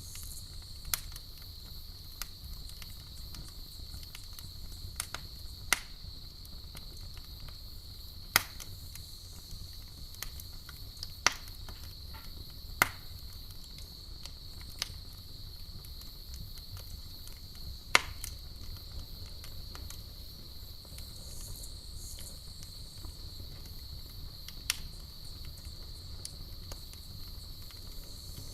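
Campfire crackling, with scattered sharp pops of burning wood, the loudest about two-thirds of the way through, over steady high-pitched cricket chirping.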